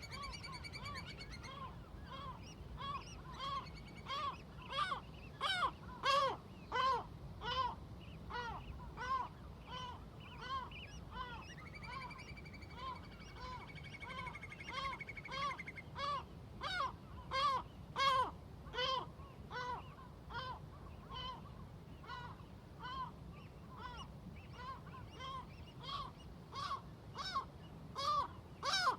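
A flock of seagulls calling over and over, short yelping calls at about two a second, with a long held high note near the start and again about twelve seconds in. A steady low rumble runs underneath.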